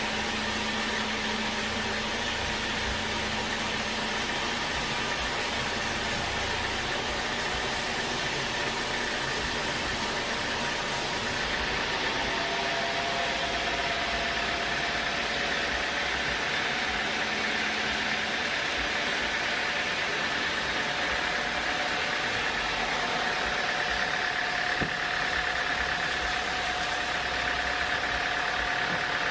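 Sawmill machinery running steadily, an engine-like drone with faint steady whines over it. About eleven seconds in, the highest hiss drops away while the drone carries on.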